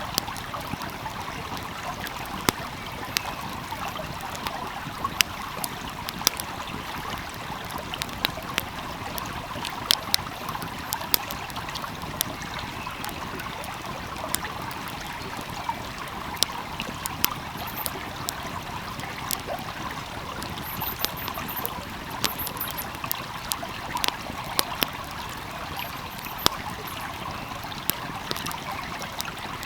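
Steady rush and trickle of a flowing stream, with a wood fire crackling and popping over it in sharp snaps every second or so.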